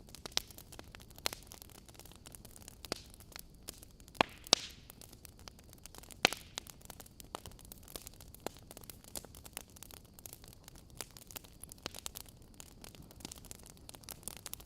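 Fireplace fire crackling: irregular snaps and pops over a steady low hiss, with a few louder pops about four and six seconds in.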